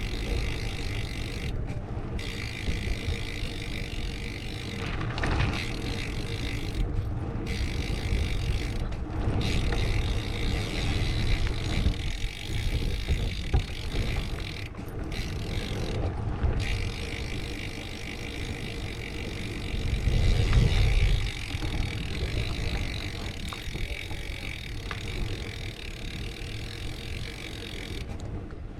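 Wind rumbling on a GoPro's microphone during a bicycle ride, with rolling noise from the ride, strongest in a gust about two-thirds of the way through.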